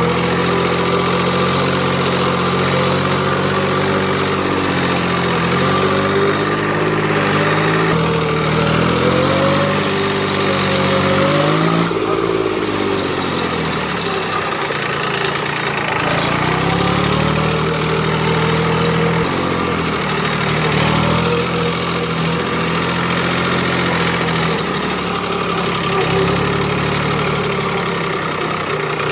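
Tractor engine running as it is driven, its pitch rising and falling several times as the revs change, sped up to one and a half times normal speed.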